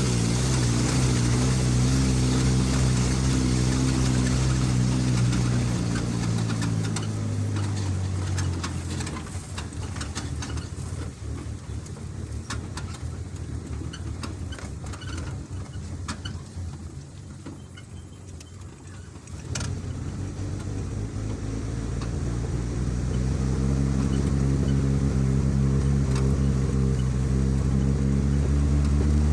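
A vehicle engine running, dropping in pitch and easing off about seven seconds in. It then goes quieter for about ten seconds, with scattered clicks and knocks. It picks up again at about twenty seconds and runs steadily for the last few seconds.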